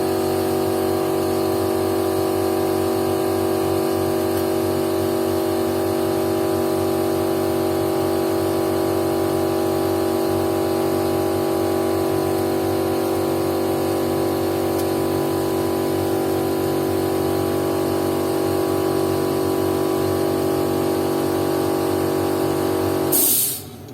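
Small air compressor running steadily, feeding a paint spray gun that hisses as it sprays leather paint. Near the end there is a short loud hiss and the compressor stops.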